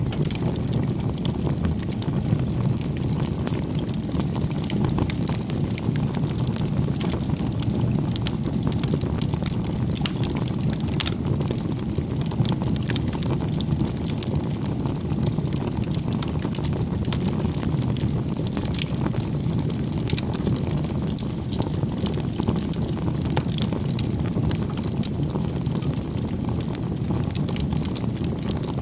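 Wood fire burning, a steady low rush of flames with frequent small crackles and pops.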